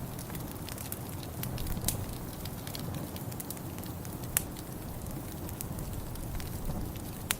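Wood fire in a fireplace crackling, with irregular sharp pops over a steady low rumble; the loudest pop comes about four and a half seconds in.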